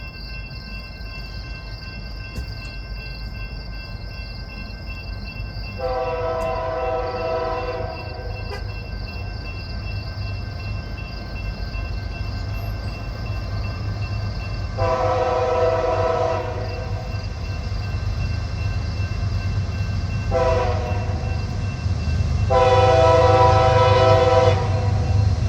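Diesel locomotive air horn sounding the grade-crossing signal: long, long, short, long. A low engine and rail rumble grows louder as the train approaches.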